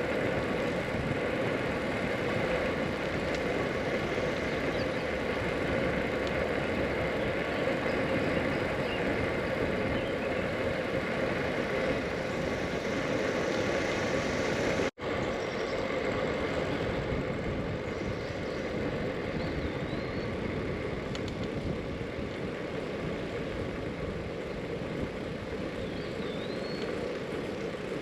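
Steady rushing road and wind noise from riding a Brompton folding bicycle down a long paved hill, broken by a brief dropout about halfway through.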